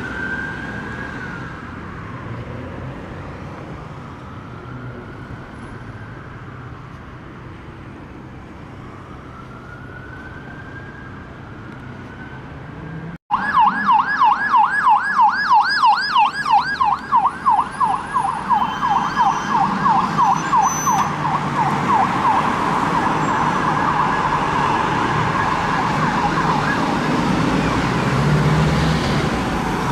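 UK emergency vehicle sirens. First a slow wail rising and falling every few seconds. After a sudden break about 13 seconds in, a louder, fast yelp of about four sweeps a second, which later thickens into a steadier siren sound over road traffic.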